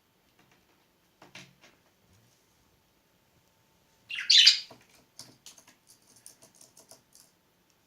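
Pet budgerigar giving one loud, harsh chirp about four seconds in, then a run of short, quick, high ticks, with a few soft taps earlier on.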